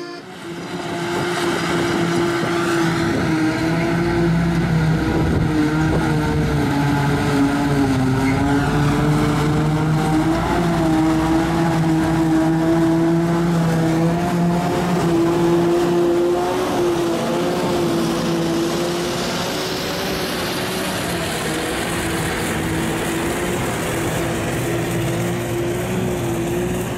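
Tractor engine running steadily at working revs, its pitch wavering slightly, a little quieter in the second half.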